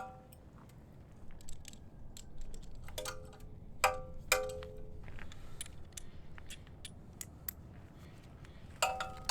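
Metal hand tools clinking on metal exhaust hardware while the stock exhaust's bolts are loosened. Scattered light ticks, with three ringing metallic clinks between about three and four and a half seconds in and another near the end.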